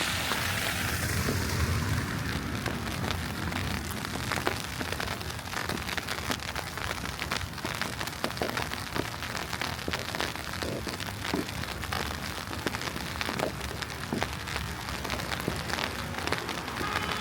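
Wet snow pattering on a city street in a snowstorm: a steady hiss dotted with many small, irregular ticks, with a low rumble in the first two seconds.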